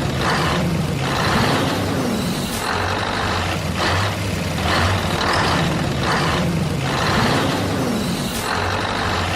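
Heavy truck engine sound with short hissing bursts several times over, the whole pattern repeating about every five and a half seconds.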